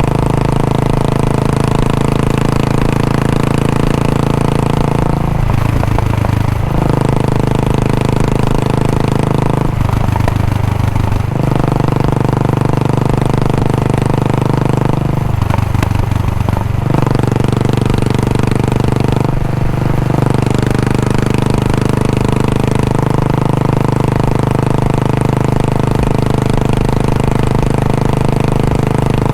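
Royal Enfield Bullet 500 single-cylinder four-stroke engine idling through its stock exhaust with a steady, even beat. The beat is broken four times by short bursts of throttle.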